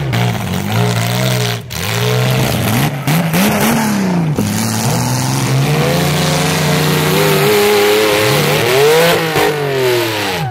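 Compact demolition-derby car engines revving hard, their pitch climbing and dropping back again and again as the cars push against each other. A higher rev is held for a couple of seconds, and a sharp run up and back comes near the end.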